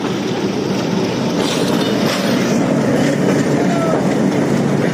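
Train running along the track: a loud, steady rumble of wheels on rail, with scattered clicks from the wheels crossing rail joints.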